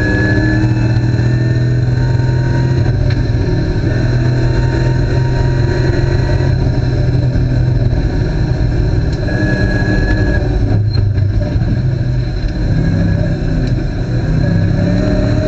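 Ford Mustang race car's V8 running hard at high revs on a racetrack, heard from inside the cabin. The engine note breaks off briefly about eleven seconds in as the driver lifts and brakes, then the revs climb again near the end.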